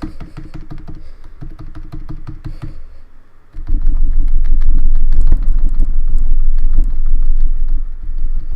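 Rapid clicking of plastic keyboard keys being typed on. About three and a half seconds in, a loud low rumble starts suddenly and carries on under the clicks.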